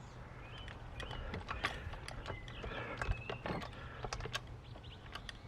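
Scattered light metallic clicks and knocks as a floor jack and a steel lifting piece are handled and set into place under a vehicle lift, with a faint squeak or two.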